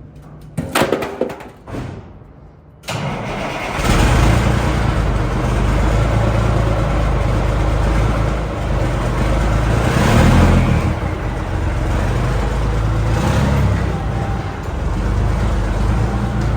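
Straight-piped Cummins L10 turbo diesel in a 1986 Ford L9000 dump truck: a few short bursts, then it fires about three seconds in and runs loud and steady, revving up around ten seconds in and briefly again a few seconds later.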